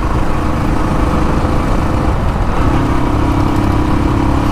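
Royal Enfield Classic 350's single-cylinder engine running through its stock exhaust while riding, with a shift in its note about two and a half seconds in.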